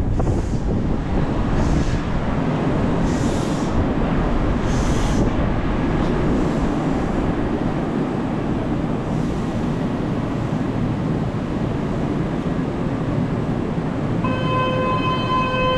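Kintetsu electric train standing at the platform with its doors open, its equipment running with a steady rumble and a few short hisses in the first few seconds. A steady pitched tone begins near the end.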